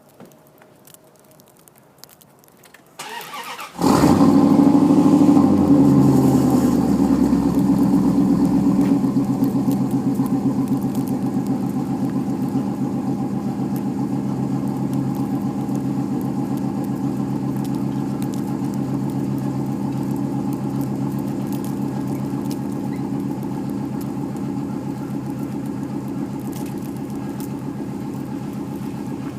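Dodge Dakota with a Gibson aftermarket exhaust starting up: the starter cranks briefly about three seconds in, then the engine catches and runs at a fast idle that slowly settles into a steady idle.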